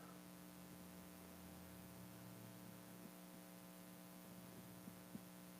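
Near silence: a steady electrical hum from the sound system, with a couple of faint ticks near the end.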